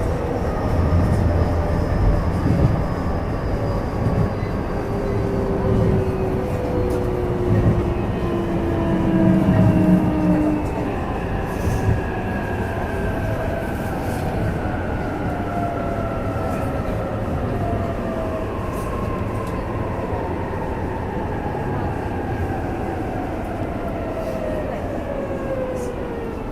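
Cabin sound of an E233-3000 series electric train's motor car: the IGBT-VVVF inverter and traction motors whine in several tones that fall steadily in pitch as the train slows, over the rumble of wheels on the rails.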